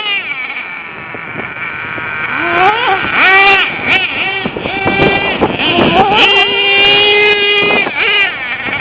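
Small nitro glow engine of a radio-controlled truck, high-pitched, revving up and down in repeated throttle blips. It holds at high revs for about two seconds near the end, then drops off.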